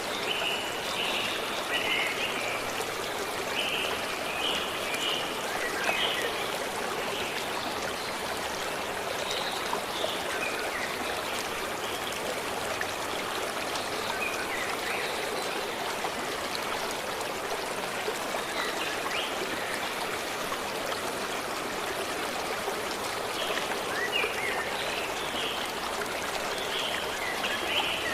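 A forest stream running steadily, with small birds chirping in short runs of high notes, busiest near the start and again near the end.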